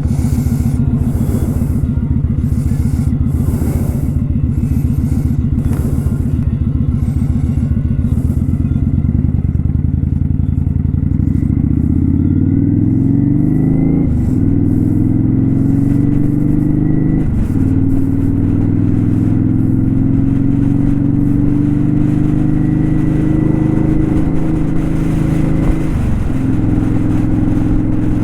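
Kawasaki Vulcan 900 Custom's V-twin engine running steadily, then accelerating about halfway through, rising in pitch with brief drops at three upshifts.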